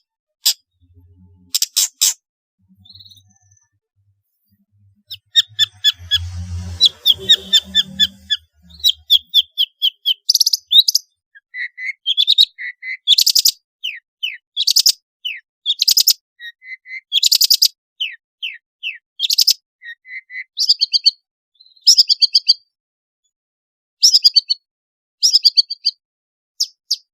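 Long-tailed shrike (pentet) singing a varied song: quick bursts of sharp, high notes in short phrases that repeat, with pauses between them. A faint low hum runs briefly a few seconds in.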